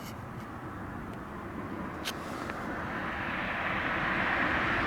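Ryanair Boeing 737-800's CFM56 jet engines spooling up for take-off, a distant jet rumble and hiss growing steadily louder.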